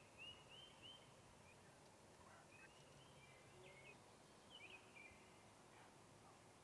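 Faint outdoor birdsong: short, high whistled chirps and slurred notes repeated every second or so over quiet field ambience.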